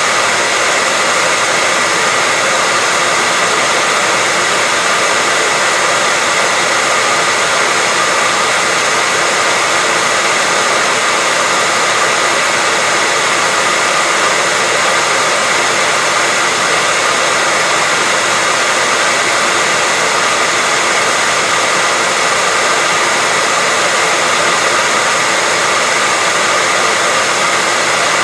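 Hair dryer running continuously, a steady, unchanging rush of air with a faint motor whine.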